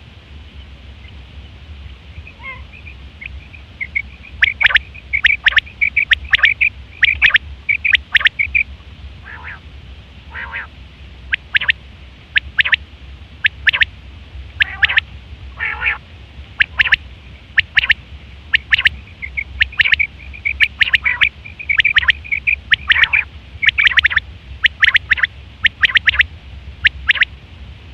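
Quail calling: quick runs of short, sharp, high notes, beginning softly about two seconds in, over a steady low hum.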